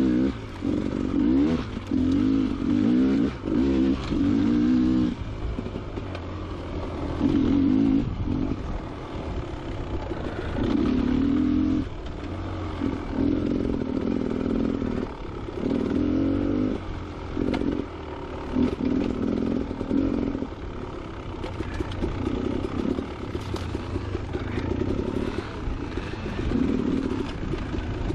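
Two-stroke engine of a Beta Xtrainer 300 dirt bike revved in short bursts of a second or two, the throttle opened and closed again and again, then running more evenly and a little quieter in the second half, with clatter and scraping underneath.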